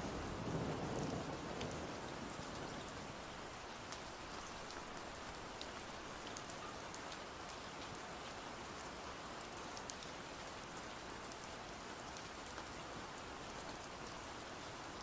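Steady rain falling, a soft even patter with scattered light drop ticks. A low rumble of thunder fades out over the first two seconds.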